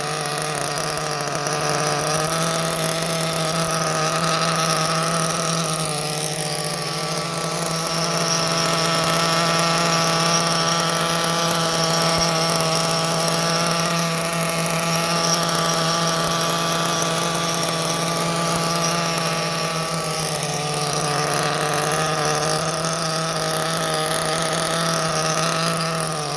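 Two small nitro RC engines running steadily at idle during their break-in. The pitch shifts slightly now and then.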